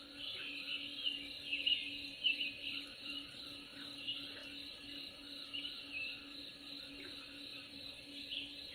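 Nature soundscape: small birds chirping again and again over a steady high hiss, with a faint low steady hum underneath.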